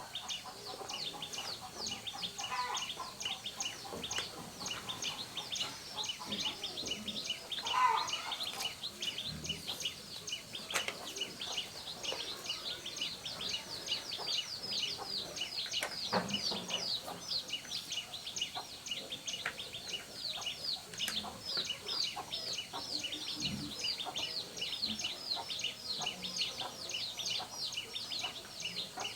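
Birds chirping in a rapid, continuous run of high, falling chirps, with a few light clicks and knocks scattered through.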